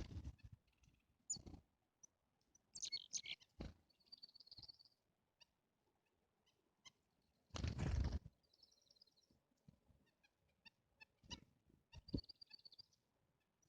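Small songbirds chirping with many short high calls and three brief trills, among scattered soft thumps and rustles, the longest a little before halfway.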